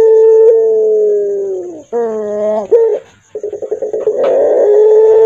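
Puter pelung dove giving its long, hoarse coo: a held note that sags and falls away about two seconds in, a short rising coo, a brief pause, a quick stuttering run of notes, then the long held note again near the end.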